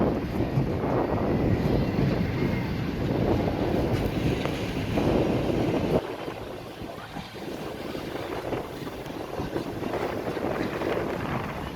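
Rumble of the Shalamar Express train running, with wind buffeting the microphone. The noise drops sharply about halfway through and carries on more quietly.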